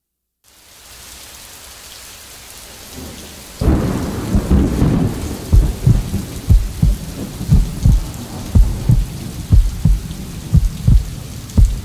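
Steady rain fading in, then a thunder rumble about three and a half seconds in. From about five seconds a deep double thump like a heartbeat repeats about once a second under the rain, the opening of an ambient music track.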